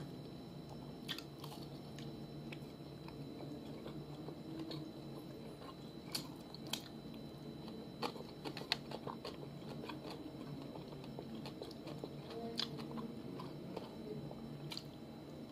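A person chewing and biting food, with a few short, crisp crunches at irregular moments over a steady low background hum.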